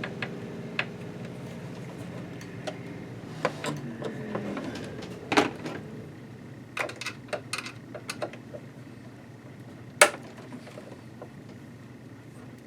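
Small clicks and knocks of a screwdriver, screws and loose parts against a Janome sewing machine's housing as a screw is taken out. There is a quick run of light taps about seven seconds in and one sharp click about ten seconds in, which is the loudest sound.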